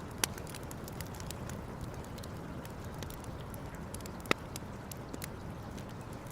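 Wood campfire crackling with irregular small snaps and two louder pops, one just after the start and one about four seconds in, over a steady low background noise.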